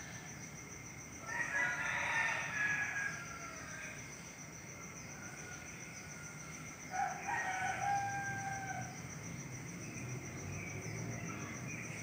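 A caged small white bird calls twice, the first call about a second in and the second about seven seconds in. Each call lasts about two seconds and is made of several held notes sounding together, over a steady high-pitched tone.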